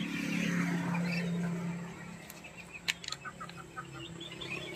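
Birds chirping in short repeated notes over a low steady hum, with one sharp click about three seconds in.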